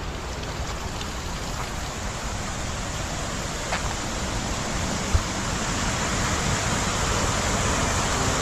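Rushing stream water: a steady rush that grows slowly louder, with a single faint knock about five seconds in.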